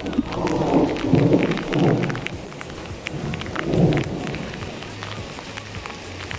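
Rain pattering, with loud low rumbling surges from about a third of a second to two seconds in and again just before four seconds.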